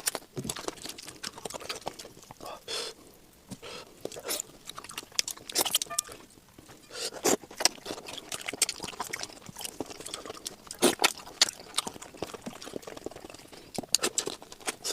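Close-miked eating for ASMR: wet chewing and mouth clicks, irregular and without pause.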